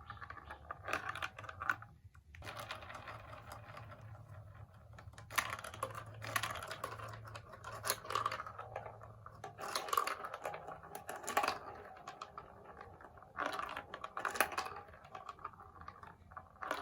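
Marbles rolling and clattering through a plastic building-block marble run: dense runs of small clicks and rattles, in several louder bursts.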